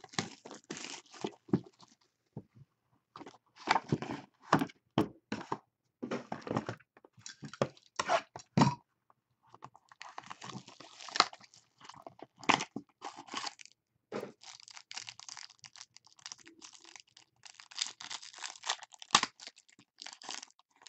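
Plastic wrapping and cardboard packaging of a trading-card box being torn open and handled: irregular crinkling, tearing and rustling in short bursts, with a few sharper crackles.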